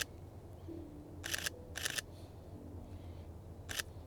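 Sony A7III camera shutter firing four separate times: once at the start, twice in quick succession about a second and a half in, and once more near the end.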